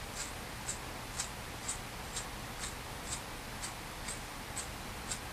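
The steel spark wheel of an empty gas lighter being spun against its flint over and over, grinding flint shavings onto a paper napkin. Each turn makes a short, high scratch, about two a second and evenly paced.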